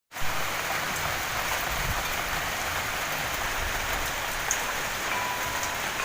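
Steady rain falling, an even hiss without pause. About five seconds in, a faint simple tune begins over it.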